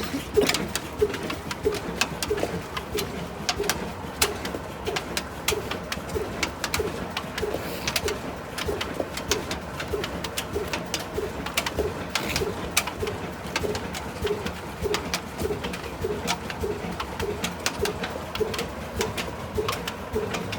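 Old single-cylinder stationary engine running at low speed, a slow, even beat about twice a second with sharp mechanical clicking over it.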